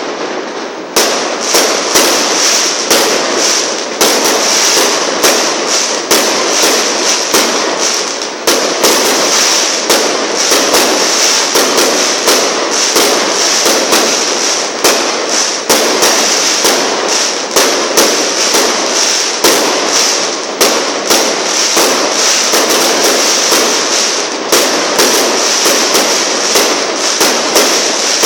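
Fireworks crackling: a dense, unbroken run of rapid sharp pops over a steady hiss, starting abruptly about a second in.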